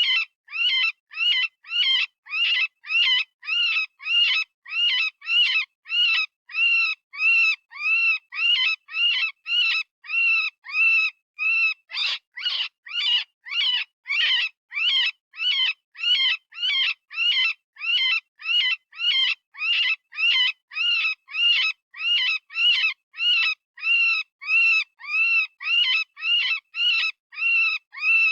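Software-generated rabbit distress call, a high-pitched scream repeated at about two short calls a second, each rising and falling in pitch, in an even unbroken series: the squealing cry of a rabbit in pain or fear, of the kind used as a predator call.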